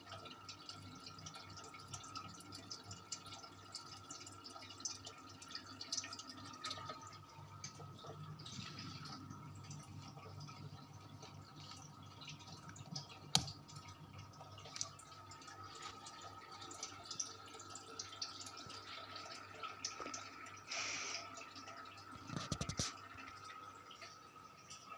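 Sanex industrial 56-inch ceiling fan running: a faint, steady motor hum with a thin high whine, and scattered light clicks and ticks, one sharper click about halfway through.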